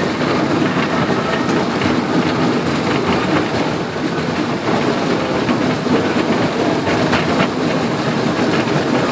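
Miniature railway train running along the track, heard from a carriage: a steady rumble and clatter of wheels on the rails.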